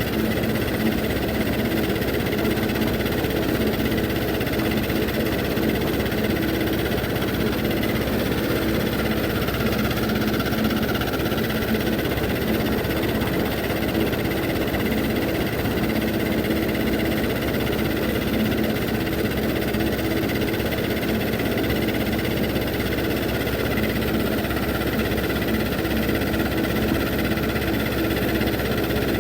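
Old Zetor tractor's diesel engine running steadily at an even idle.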